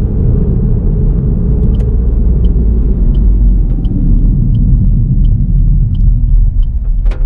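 Car driving along a road: a steady low rumble of road and engine noise. A faint, regular tick about every 0.7 s starts a couple of seconds in, and there is a short sharp click near the end.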